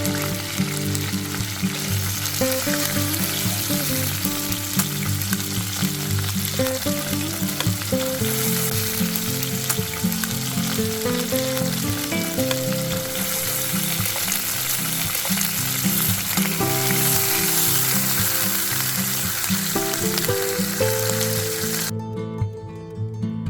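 Meat sizzling as it fries, with background music playing under it. The sizzle cuts off abruptly near the end, leaving only the music.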